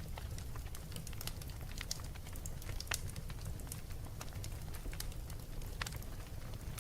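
Wood fire crackling: irregular sharp pops and snaps, a few louder ones (about three seconds in and near the end), over a steady low rumble.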